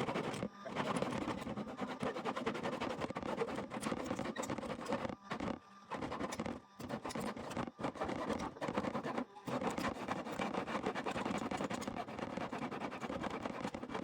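A freshly restored old hand saw cutting, a continuous rasping of the blade stroke after stroke, with a few short breaks between runs of strokes.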